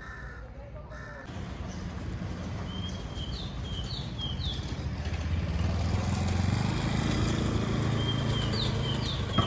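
Outdoor ambience: a bird calls in two sets of three short rising calls, a few seconds apart, over a low rumble that swells through the second half, most likely from a passing motor scooter.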